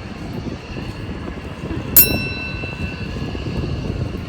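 A single sharp metallic ding about two seconds in, ringing on for about a second, over a steady low outdoor rumble.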